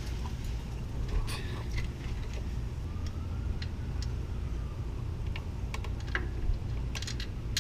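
Scattered light metallic clicks and clinks of hand tools and engine parts being handled, over a steady low rumble. A faint tone rises and falls near the middle.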